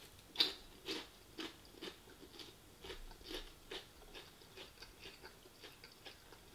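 A person biting into and chewing a battered sweet and sour chicken ball close to the microphone: crunchy chews about twice a second, loudest in the first two seconds and fainter after.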